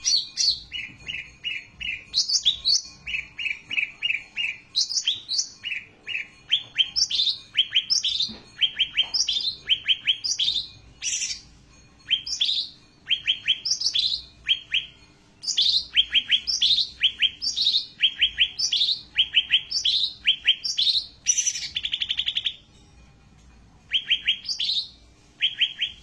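Cak ranting songbird singing its song over and over. Each phrase is a high down-slurred note followed by a quick run of short chipping notes, with brief pauses between some phrases.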